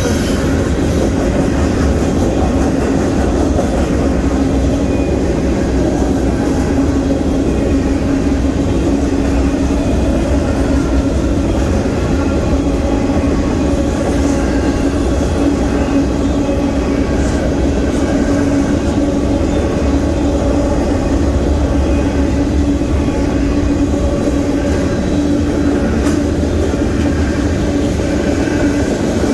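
Union Pacific freight train's covered hoppers and boxcars rolling past at a grade crossing: a steady, loud rumble of wheels on rail with a continuous low drone running under it.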